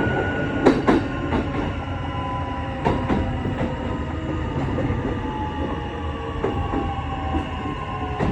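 Kintetsu 8A series electric train running, its Mitsubishi hybrid SiC VVVF inverter giving several steady whining tones that fall slowly in pitch as the train slows, over the rumble of the running gear. The wheels knock over rail joints in quick pairs, about a second in and again about three seconds in.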